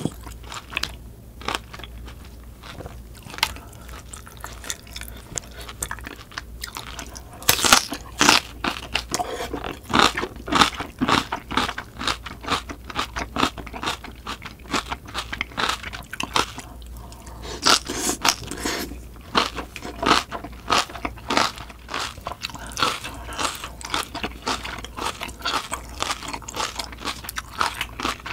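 A person chewing crunchy napa cabbage kimchi, with irregular wet crunches. The crunches are sparse at first and come thick and loud from about seven seconds in.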